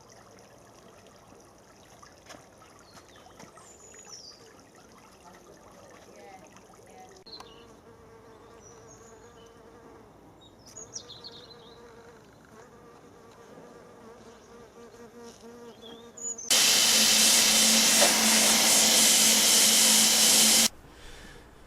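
Quiet outdoor background with a few short high bird chirps. About 16 seconds in, a loud, steady buzz with a low hum and hiss starts abruptly and cuts off about four seconds later.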